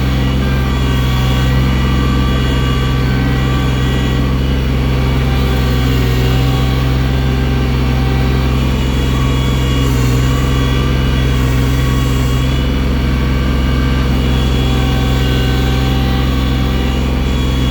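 Engine of a loader tractor running steadily under work, its pitch shifting slightly up and down as it works the bucket through deep snow.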